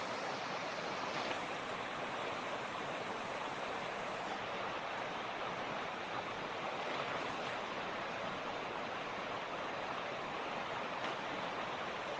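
Creek water rushing and splashing over rocks in a steady, even rush.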